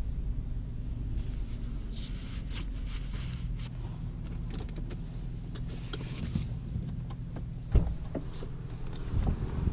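A vehicle engine idling steady and low, with brief handling noises and one sharp thump about three-quarters of the way through, followed by a few lighter knocks near the end.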